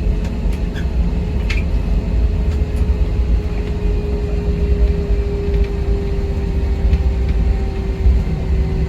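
Airliner cabin noise before takeoff: a steady low rumble with a constant mid-pitched hum running under it. A few faint clicks come in the first couple of seconds.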